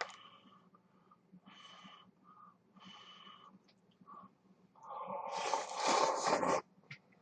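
Instant ramen noodles being slurped: a few short slurps, then one long, loud slurp about five seconds in.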